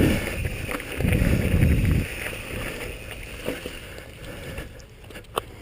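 Wind and rumble on the microphone from a mountain bike riding down a rough, rocky trail. After about two seconds it drops to a quieter stretch with scattered clicks and knocks.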